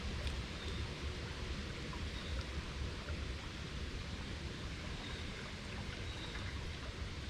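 Steady rushing of running creek water, with a low rumble underneath and a few faint ticks.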